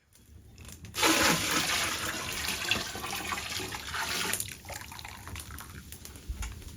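Liquid pouring or rushing in a strong stream, starting suddenly about a second in and easing off after about three and a half seconds.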